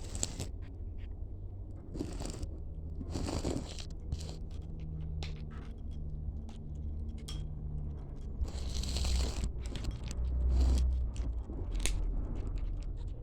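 A cat chewing its food, with bones cracking and crunching between its teeth in irregular bursts, over a low steady hum.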